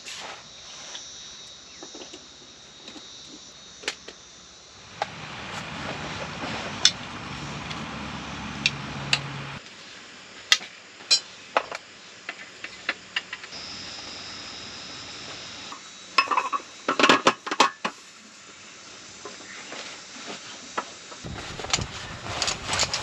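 Scattered clinks and knocks of dishes and utensils being handled, with a cluster of quick clatters about two-thirds of the way through, over a background hiss that changes suddenly several times.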